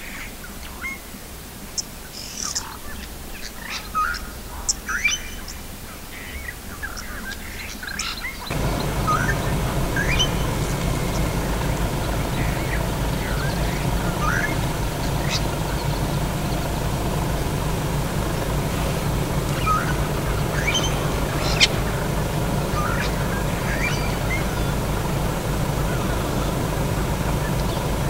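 Small birds chirping in short, scattered calls. About eight seconds in, a steady low engine hum, like an idling vehicle, comes in under the bird calls and stays.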